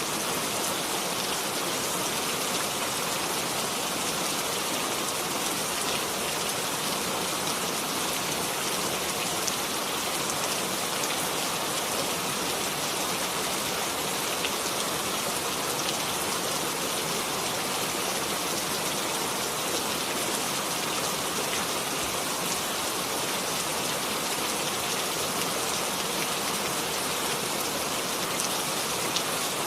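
Steady rain falling, an even hiss of many drops with fine scattered patter of drops hitting a surface.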